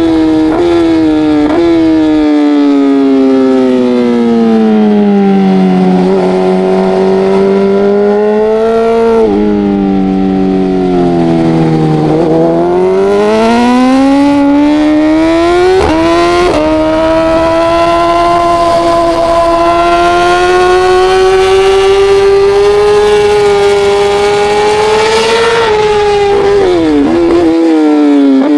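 Racing motorcycle engine at high revs, the pitch falling twice under braking and climbing back up as it accelerates through the gears. It holds steady and high through the middle, then drops with a quick series of downshift blips near the end.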